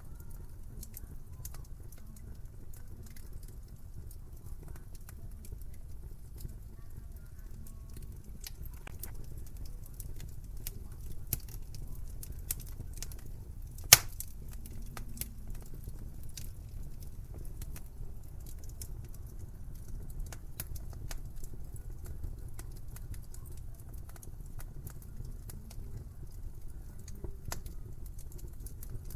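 Wood fire crackling in a fireplace: scattered sharp pops and snaps over a low, steady rumble, with one loud pop about halfway through.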